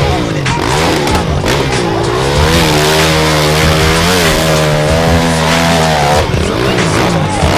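Motocross bikes' engines revving hard, their pitch rising and falling as they race.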